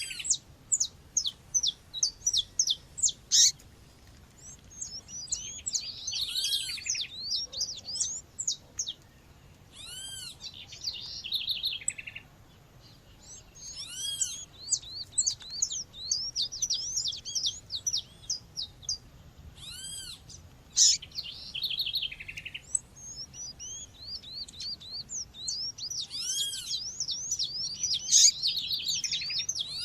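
Female Sporophila seedeater calling: phrases of quick, high chirps a few seconds long with short pauses between them, and a single arched call note that comes back every few seconds.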